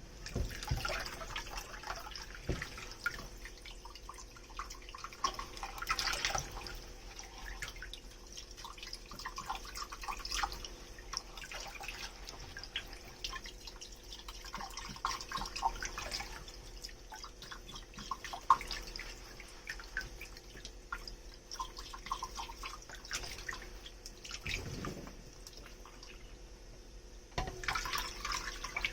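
Dishes washed by hand at a kitchen sink: running and dripping water with irregular splashes and scattered sharp clicks and knocks, one sharper knock a little past the middle.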